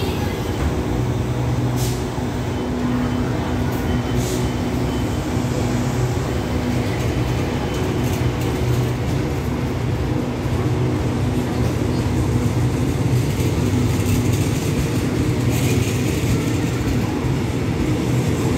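Passenger train standing at a station platform, its diesel engines running with a steady low hum.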